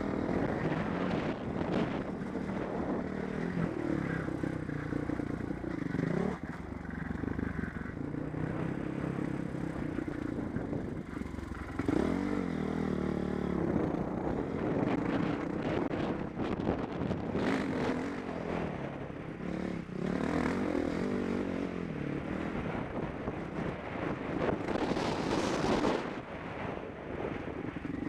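Motocross bike engine running hard, its pitch rising and falling as the rider opens and closes the throttle and shifts, heard from a helmet camera with wind rush and clatter over it. Near the end there is a brief loud rush of noise.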